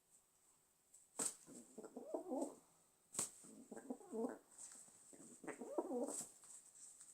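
Domestic pigeon cooing in three phrases, each begun by a sharp click.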